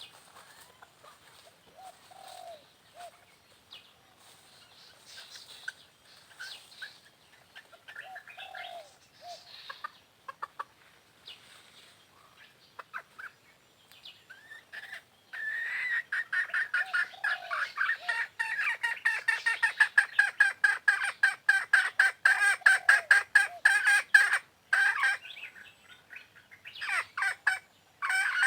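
Chicken clucking, with scattered soft calls at first, then from about halfway a loud, rapid run of repeated clucks, several a second, with a short break near the end.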